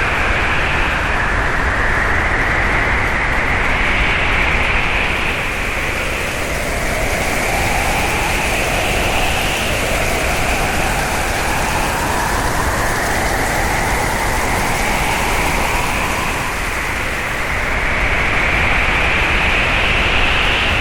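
Howling hurricane wind: a steady roar with a whistling tone that slowly rises and falls in pitch over several seconds, easing off briefly twice.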